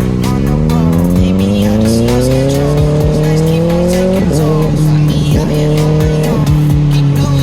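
Kawasaki ZX-6R sport bike's inline-four engine pulling up through the revs, then about four seconds in an upshift drops the pitch and it holds a steady cruise. Music plays along.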